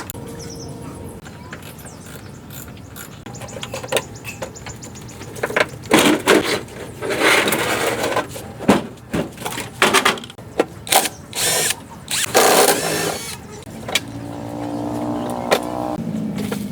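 Workshop tool work: a quick run of sharp knocks and short noisy bursts, followed near the end by a pitched hum lasting about two seconds.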